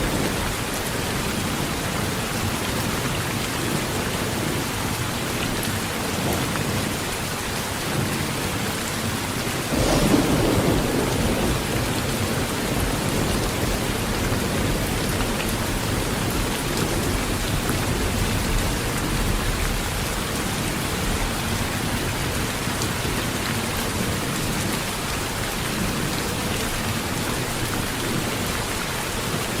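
Heavy rain drumming steadily on a tin roof, with a roll of thunder that breaks in about a third of the way through and rumbles away over several seconds.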